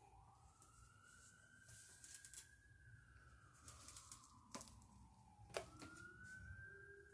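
Faint fire truck siren wailing, its pitch rising slowly, falling, then rising again. Two sharp clicks come just before the second rise.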